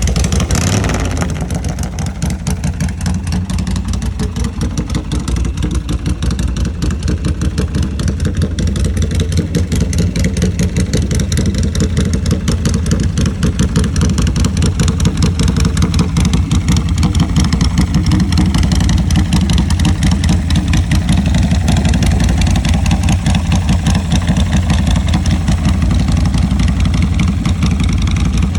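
2016 Free Bird custom chopper's engine running at idle, a steady rapid beat of firing pulses, growing somewhat louder in the second half.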